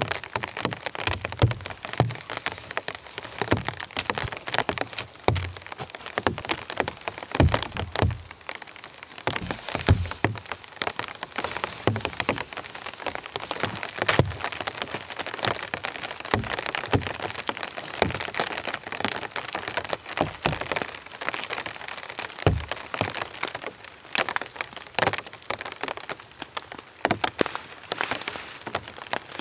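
Cold rain falling in forest, heard as a dense, irregular scatter of sharp drop hits, with occasional low thumps.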